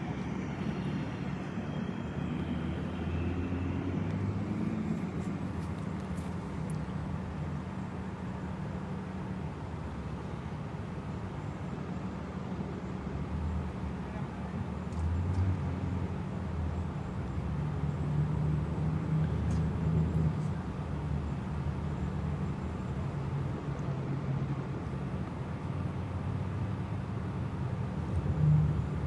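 Steady low rumble of motor vehicle engines with road traffic noise, swelling a little now and then.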